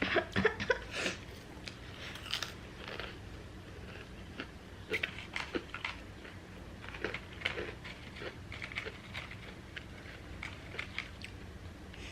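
Close-up chewing and biting of crisp food, with sharp crunches loudest in the first second and again in clusters about five and seven seconds in.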